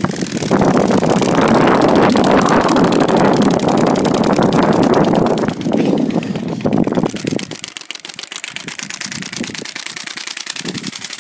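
Playing cards held by a clothes peg against a bicycle's spokes, flapping on them as the wheel turns: a loud, fast buzzing rattle meant to sound like a motorbike engine. About seven seconds in it drops to a quieter, rapid ticking.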